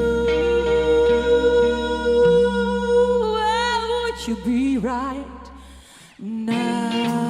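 Live band music: one long held high note that wavers and bends near its end, over a steady bass note. The bass stops about six seconds in, and after a brief dip a new, lower note starts.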